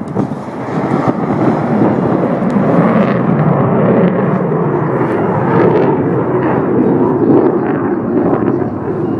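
Aircraft engine noise from a plane flying by. It builds over the first second or so, holds at a loud, steady level, and eases a little near the end.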